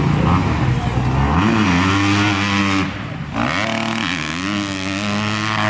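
250-class hill-climb motorcycle engine running hard as it climbs, its pitch rising and falling several times with the throttle, with a brief drop about three seconds in.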